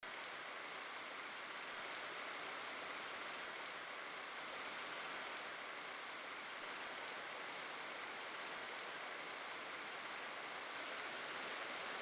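Steady rain falling: an even, soft hiss with a faint patter of drops.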